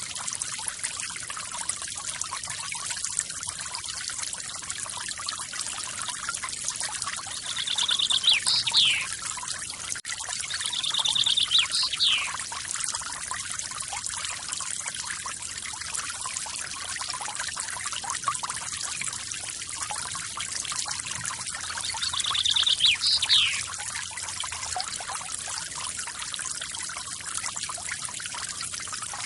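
Waterfall splashing steadily. A songbird sings three times over it, each song a short trill ending in a quick falling note.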